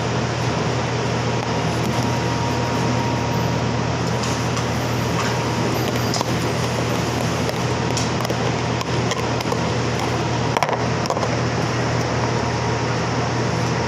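A steady mechanical hum with an even hiss over it, like an air conditioner or fan running, with a few faint clicks now and then.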